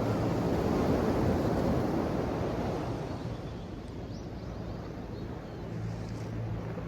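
Ocean waves washing: a steady rush of surf that swells over the first couple of seconds and then eases. A low steady hum sits under it at the start and comes back near the end.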